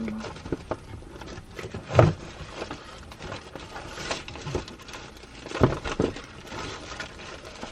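Small objects being handled and set down, with light clicks and rustles and three sharper knocks about two seconds in and twice near the six-second mark.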